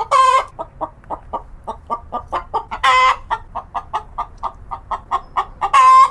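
Domestic fowl clucking: rapid short clucks, about five a second, broken by three longer, louder squawks, one at the start, one about three seconds in and one at the end.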